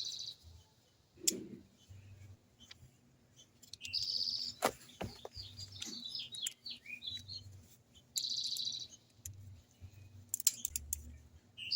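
Socket ratchet clicking in short bursts, each under a second, as the motorcycle's skid plate bolts are turned out, with scattered knocks of the tool. Small birds chirp in the background.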